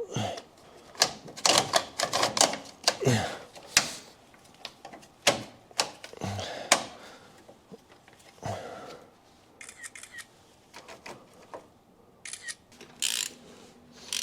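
Irregular metallic clicks, taps and clanks of hand tools and metal parts being worked and handled, many in quick clusters with short pauses between them.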